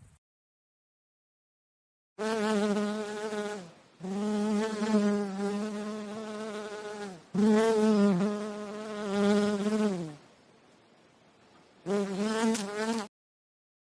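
A flying insect buzzing in four bursts of a low, steady wing hum, the pitch sagging as each burst dies away.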